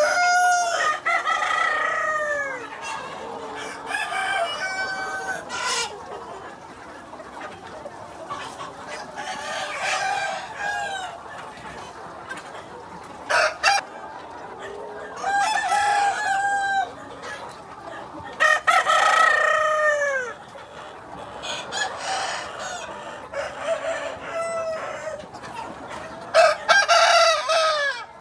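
Free-range village chickens: roosters crowing again and again, every few seconds, with hens clucking between the crows.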